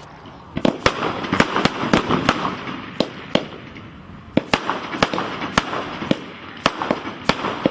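A 19-shot 'Troya' consumer fireworks cake firing, its shells going off as sharp bangs in quick succession, about two a second, with a rushing noise between them and a short lull about halfway through.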